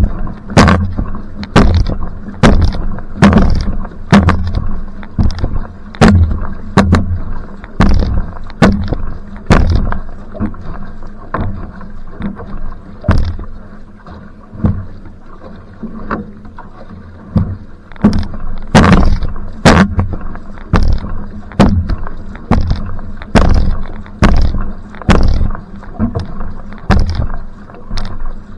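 Va'a (outrigger canoe) paddle strokes in a sprint: a sharp splash at each paddle catch, about one and a half a second, over a steady rumble of water along the hull. The strokes go softer for a few seconds midway, then pick up again.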